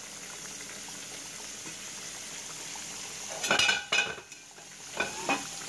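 Flour-coated pork chops sizzling steadily in hot oil in a steel pan. About three and a half seconds in, loud clanks of metal cookware, a pot lid among them, twice, then more clanks near the end.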